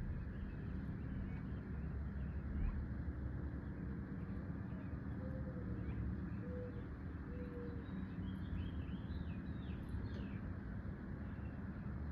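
Birds chirping, with a quick run of high chirps in the latter part, over a steady low rumble. A few short low whistled notes are heard in the middle.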